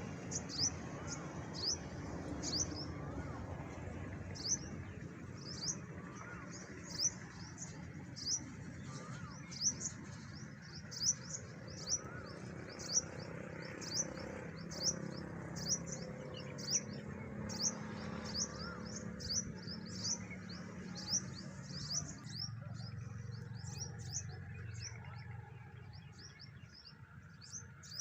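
A small bird chirping over and over: short, high, downward-sliding chirps, roughly one or two a second, over a steady low background hum that eases off near the end.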